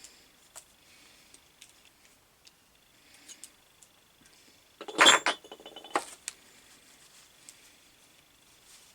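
Small metal parts and tools being handled: faint scattered clicks and scrapes, with a loud metallic clatter about five seconds in, a sharp hit followed by a quick rattle, and one more clink just after.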